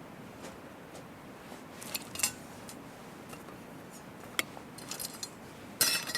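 Small metal utensils or cookware clinking as they are handled: a few scattered light taps, the loudest cluster near the end, over a low steady background.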